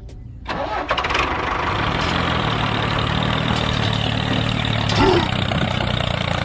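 Small engine of a home-built mini tractor starting about half a second in, then running steadily.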